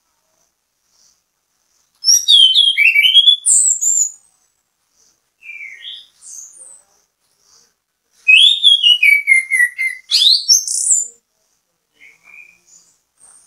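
A chestnut-capped thrush (anis kembang) in full song: two loud runs of quick, varied whistled notes sweeping up and down, about two seconds and eight seconds in. A few softer single notes come between the runs and near the end.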